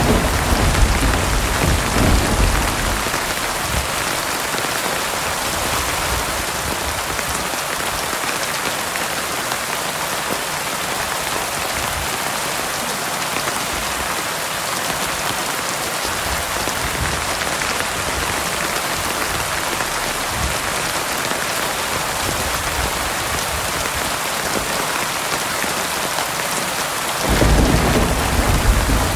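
Heavy rain falling in a steady, dense hiss. Low thunder rumbles through the first few seconds and starts again about two seconds before the end.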